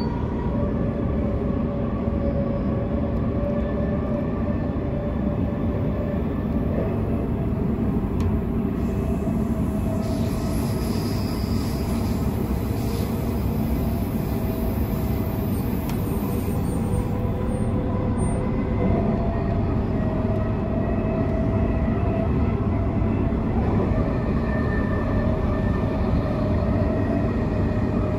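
Transperth B-series electric train heard from inside the carriage, running non-stop at speed: a steady rumble of wheels on rail with a faint hum of the traction motors, whose pitch shifts slightly now and then.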